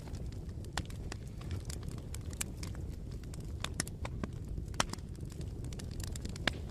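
Bonfire crackling: irregular sharp pops and snaps of burning wood over a steady low rumble of the flames, with a couple of louder pops near the end.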